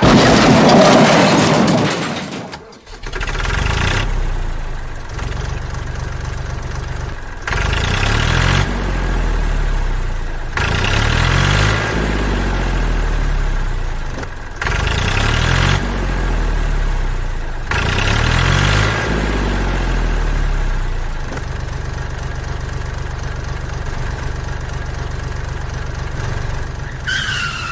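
A vehicle engine running steadily, revved up and down four times, then settling back to a steady idle. A loud burst of noise comes in the first couple of seconds.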